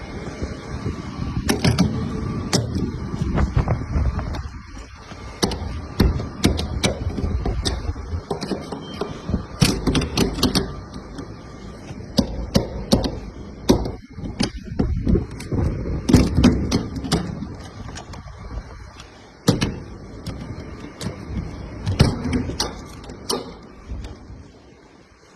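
Sharp, irregular metal clicks and clacks over a low rumble, typical of Boeing 777 engine cowl latches being handled and released by hand.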